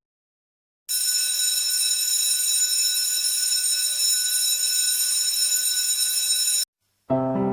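A steady, buzzing alarm tone, held at one pitch for about six seconds and cut off abruptly; piano music comes in near the end.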